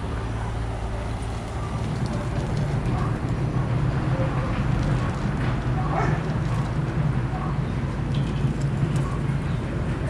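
A steady low machine hum that grows a little louder about two seconds in, with faint scattered chirps and clicks above it.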